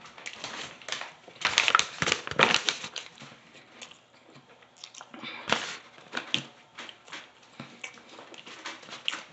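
Close-up chewing and crunching of a crispy fried chicken sandwich, a string of crackly bites. The loudest crunches come about two seconds in, with another sharp one a little past the middle.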